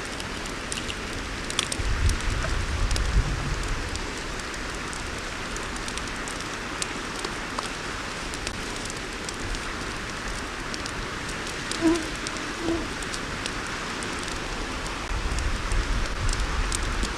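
Campfire crackling with many sharp pops, over a steady rush of creek water. A low rumble on the microphone comes about two seconds in and again near the end.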